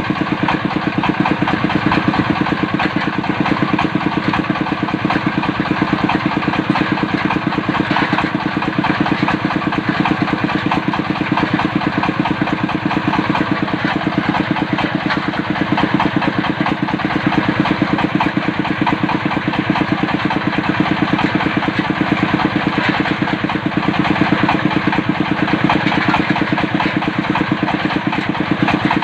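Diesel engine of a water-well drilling machine running steadily under even load, with a fast regular firing pulse.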